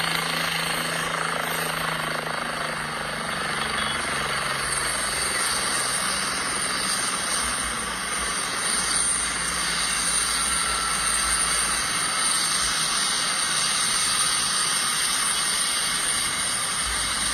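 Helicopter running, a steady noise that holds without a break.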